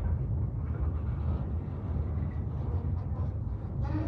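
Freight train of covered hopper cars rolling past: a steady low rumble of steel wheels on rail, with a short knock near the end.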